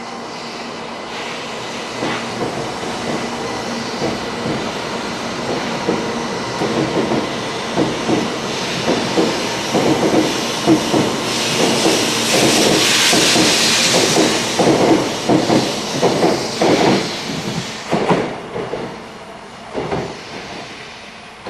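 A 700 series Shinkansen train moving along the platform. Its wheels clack over rail joints in a rapid, irregular string of knocks, with a loud hiss midway. It then fades as the train draws away.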